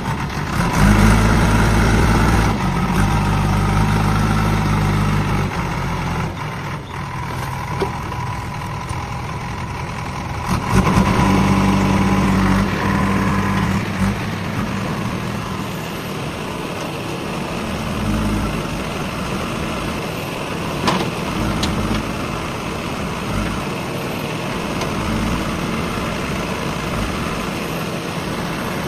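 Heavy diesel vehicle engine running, getting louder twice: once about a second in for several seconds, and again around the middle. In between and afterwards it runs more steadily.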